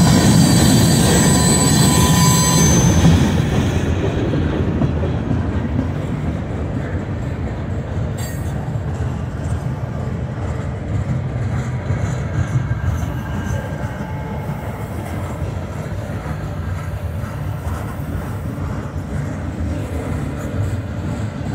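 Freight cars of a CSX mixed freight train rolling past at a grade crossing: a steady rumble of steel wheels on rail. A high-pitched wheel squeal rings over the first three seconds or so, then fades out.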